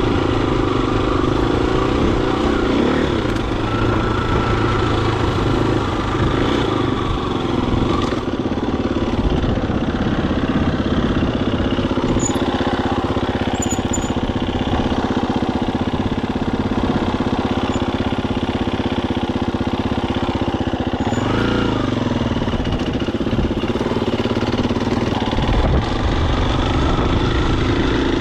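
Husqvarna FE250 dirt bike's single-cylinder four-stroke engine running steadily while riding, with one brief change in revs about three-quarters of the way through.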